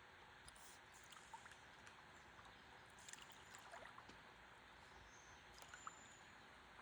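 Faint river water flowing around a stand-up paddleboard, a steady soft hiss with scattered small drips and clicks.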